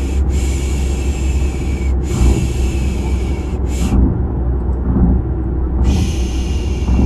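Steady low car-ride rumble under repeated 'shhh' shushing for baby sleep. The shushes come in long hissing strokes of about one and a half seconds, with short breaks and a pause of about two seconds in the middle.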